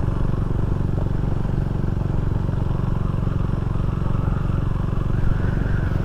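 Can-Am Ryker three-wheeled motorcycle running at a steady cruising speed: an even engine drone with road and wind noise.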